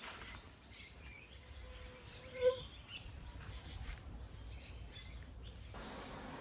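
Faint bird chirps over a quiet outdoor background, with one louder short call about two and a half seconds in.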